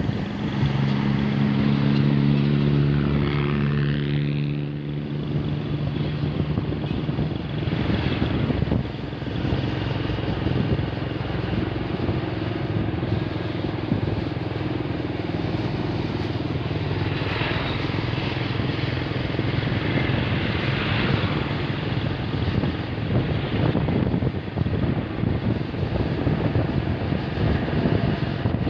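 Heavy truck engines running on a road, with a strong, steady engine hum from a close truck for the first five seconds, then continuous engine and tyre noise from the traffic.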